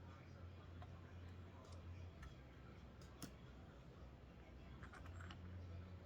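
Faint, scattered small clicks and taps of hand work on guitar parts, over a low hum that stops about two seconds in and comes back near the end.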